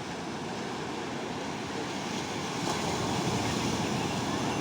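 Sea surf washing onto the beach, with wind on the microphone; the rushing grows a little louder about halfway through.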